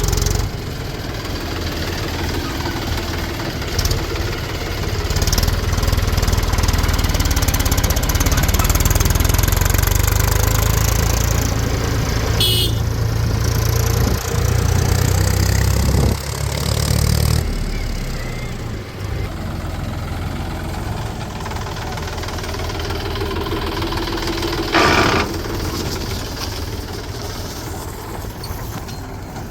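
Diesel engines of a backhoe loader and a tractor running while mud is loaded. The low rumble eases off about two thirds of the way through, and there are two sharp knocks, one near the middle and one near the end.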